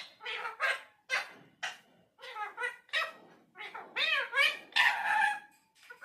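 Pet Indian parrot chattering in a string of short calls and speech-like syllables, several with pitch that wavers up and down, coming thicker in the second half.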